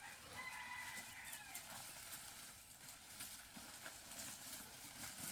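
Faint outdoor rural ambience with a single drawn-out animal call, about a second long, shortly after the start.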